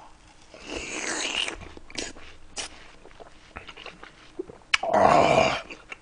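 A man chewing and slurping juicy mouthfuls of watermelon soaked in cider, with wet smacking clicks and two louder slurps, one about a second in and one near the end.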